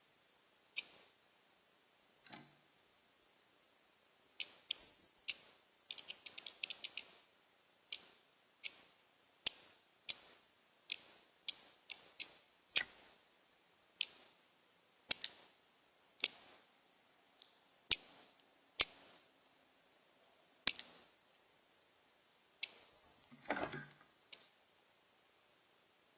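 Birds at a feeder making sharp, high ticks, roughly one a second, with a quick run of them about six seconds in. A brief rustle comes near the end.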